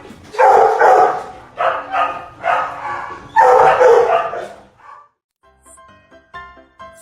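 A dog barking loudly, four or five long drawn-out barks, stopping about five seconds in; light background music with plucked notes starts right after.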